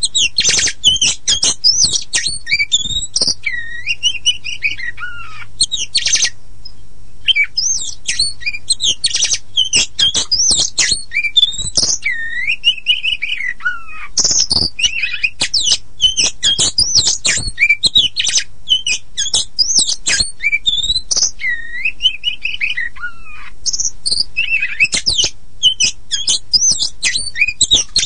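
Oriental magpie-robin (kacer poci) singing without a break: a fast, dense jumble of high chattering notes and clicks, broken about three times by slurred whistles that fall in pitch. A faint low hum runs underneath.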